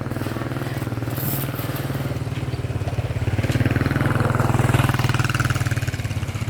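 A small engine running steadily with a fast, even pulse, getting a little louder in the middle and easing off near the end.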